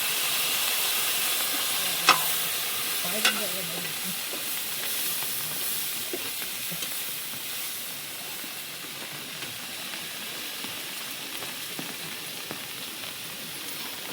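Food frying in a pan with a steady sizzle, and two sharp knocks a little over a second apart about two seconds in.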